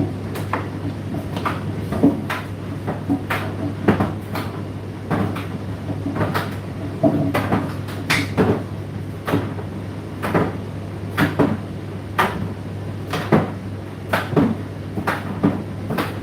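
Indesit IDC8T3 condenser tumble dryer running: a steady low motor hum with sharp knocks about once a second as the load tumbles in the drum.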